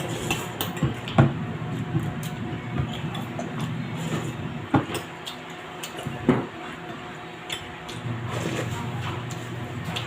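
Spoons and dishes clinking, with scattered sharp clicks and knocks of utensils against bowls and plates during a meal, over a steady low hum.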